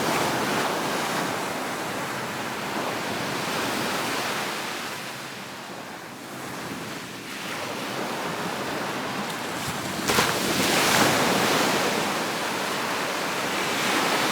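Gulf of Mexico surf washing onto the beach, swelling and ebbing, with a louder wave breaking about ten seconds in.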